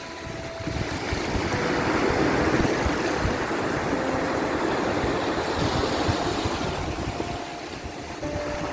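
Sea waves washing and surging, building over the first two seconds and easing off near the end.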